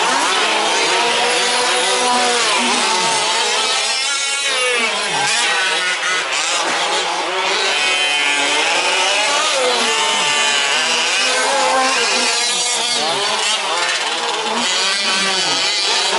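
Several small two-stroke petrol engines of 1/5-scale RC trucks racing together, overlapping, their pitch climbing and dropping constantly as they throttle up and back off.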